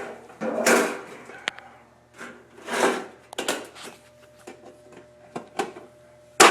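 Cut pieces of sheet metal duct being handled and fitted together: several scraping slides and a few light clicks, then a sharp metallic knock near the end.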